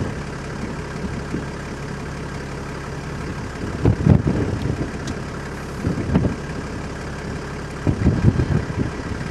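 Car engine idling steadily, a low even hum, with a few short low rumbles about four, six and eight seconds in.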